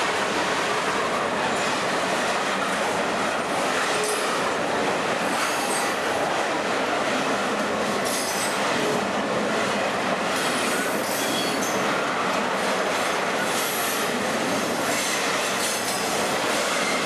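Loaded iron-ore hopper wagons of a long freight train rolling past close by: a steady, loud rumble and rattle of steel wheels on the rails, with a few brief, faint wheel squeals.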